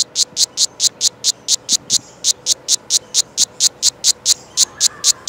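Australian cicada singing: a loud, high-pitched, rapid pulsing call, about five even pulses a second.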